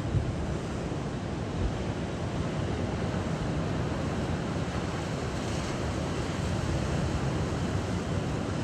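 Steady rush of moving water, with wind rumbling on the microphone and a brief brighter hiss about five and a half seconds in.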